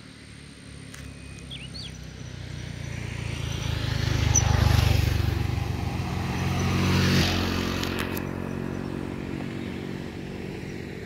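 A motorbike passes on the road: its engine grows louder to a peak about halfway through, then fades to a steady lower running sound.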